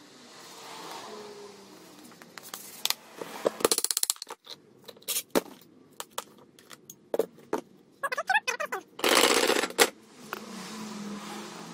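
Clicks, knocks and scrapes of small metal parts and tools being handled while an angle grinder is taken apart. There is a short rapid rattle about four seconds in, and a louder noisy burst lasting under a second about nine seconds in.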